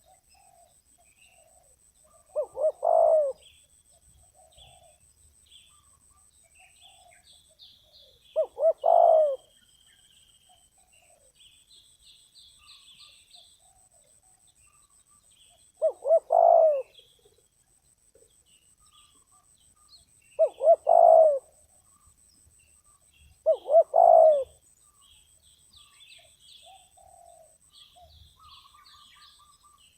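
Spotted dove cooing: five calls a few seconds apart, each a couple of quick short notes running into a longer coo. Faint chirping of small birds between the calls.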